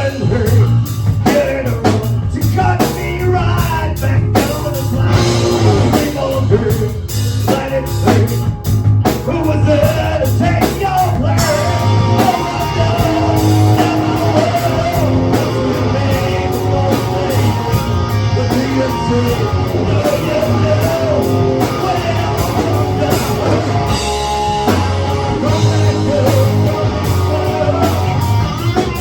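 Rock music played by a band with drum kit and guitar over a steady beat; a wavering melody line comes in about twelve seconds in.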